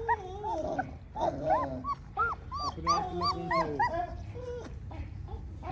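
Several Tibetan mastiff puppies whining and yelping, many short high cries that rise and fall and overlap each other, with a few longer wavering whines underneath.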